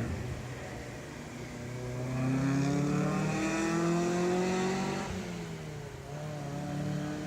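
NB2 Mazda Miata's four-cylinder engine, breathing through a JEGS turbo muffler, accelerating as the car drives by. The exhaust note climbs steadily, drops at a gear change about five seconds in, then pulls up again.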